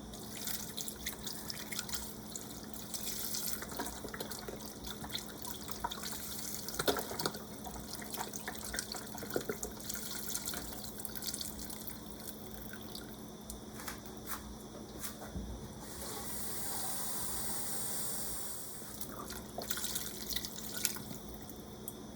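Liquid being poured into a soup pot: chicken broth from a carton, splashing and glugging irregularly. Past the middle there are a few seconds of a steadier run of water.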